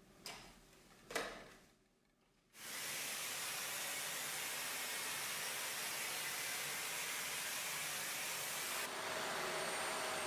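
Dyson Ball Animal 2 upright vacuum cleaner: a couple of clicks, then the motor starts suddenly and runs as a steady loud rush of airflow. About nine seconds in a thin whine joins it, and right at the end the motor begins to wind down with a falling whine.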